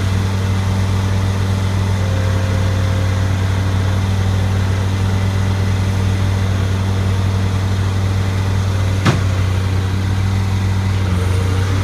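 Bobcat skid-steer loader's engine running at a steady speed with an even low drone. One sharp knock about three-quarters of the way through.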